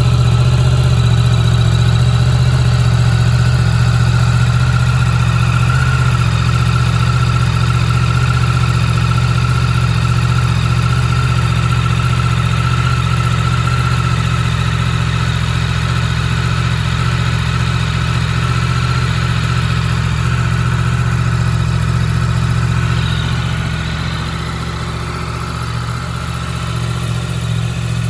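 Yamaha MT-10's crossplane inline-four engine idling steadily from a cold start after standing unused for about three weeks. The idle drops slightly about 23 seconds in, then picks back up near the end.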